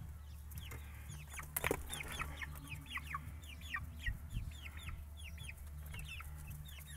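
Several backyard hens clucking and chirping, many short falling calls in quick succession, as the flock squabbles over a beetle one hen is holding.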